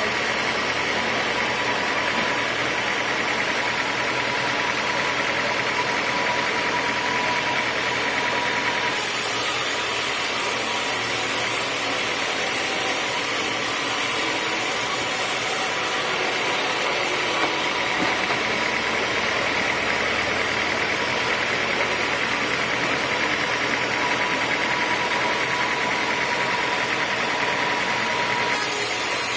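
Sawmill machinery running steadily, with a hissing high edge that comes in about nine seconds in, drops out some eight seconds later and returns near the end.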